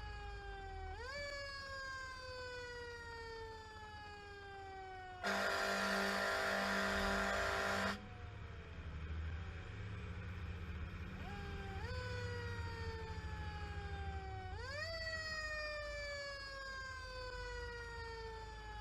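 Fire engine's mechanical siren winding up in quick surges and coasting slowly down in pitch, four times over, over the rumble of the engine. A steady air horn blast of nearly three seconds comes about five seconds in.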